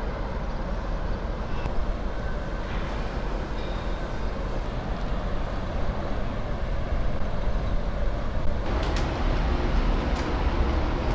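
Steady low rumble and noise of a moving vehicle, growing somewhat fuller about eight and a half seconds in.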